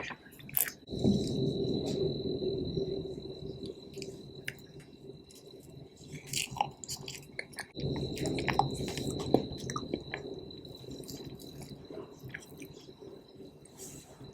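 Close-miked chewing of soft cake with wet mouth clicks, in two bouts: one starting about a second in and one starting about eight seconds in. A faint steady high whine runs underneath.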